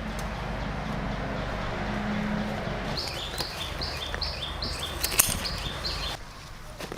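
A bird calling a rapid series of about eight short high notes, each dropping in pitch, for about three seconds midway through, with a sharp click among them. Before the calls there is a low steady hum.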